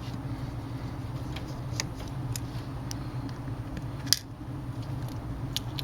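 A few small, sharp clicks and taps, the loudest about four seconds in, as a pry tool works a ribbon-cable connector loose inside a Kindle Fire HDX tablet, over a steady low hum.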